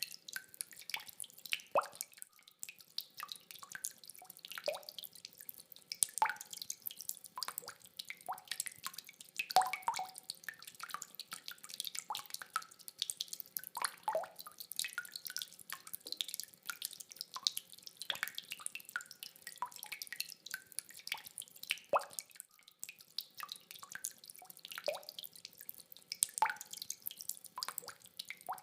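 Rainwater dripping in many irregular drops of different pitches, several a second, over a faint hiss.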